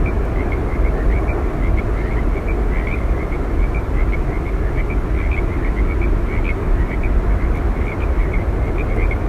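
Waterfall roaring steadily, a deep even rush of falling water, with small high chirps sounding over it several times a second.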